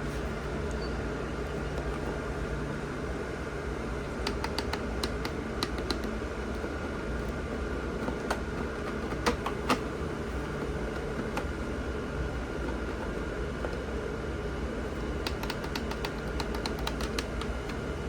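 A small electric motor running steadily with a hum and a thin whine, with groups of sharp clicks a few times.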